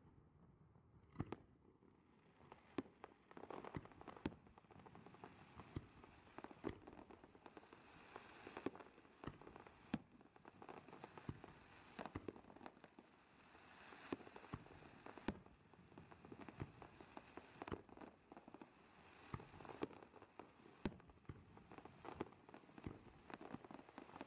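Aerial fireworks shells bursting: an irregular, continuous series of sharp bangs, some louder than others, with a noisy crackling haze between them.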